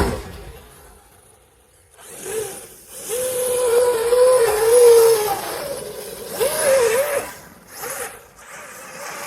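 An electric RC monster truck's brushless motor whining in bursts as the throttle is worked, its pitch wavering with speed, over a hiss of tyre and ground noise. The first two seconds are quiet, the longest burst comes about three seconds in, and shorter ones follow.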